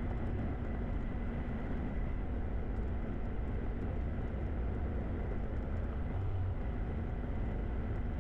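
Light aircraft engine running steadily at taxi power, heard as an even drone from inside the cockpit.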